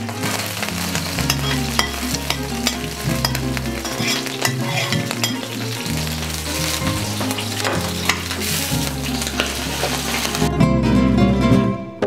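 Chopped onion and garlic sizzling in hot olive oil in a steel paella pan, with a metal slotted spoon clinking and scraping as it stirs. Low background music runs underneath, and in the last second or so the sizzle drops out as guitar music takes over.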